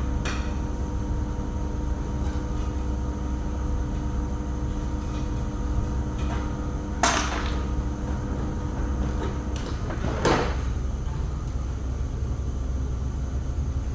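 Steady low machine hum, with two sharp knocks about seven and ten seconds in.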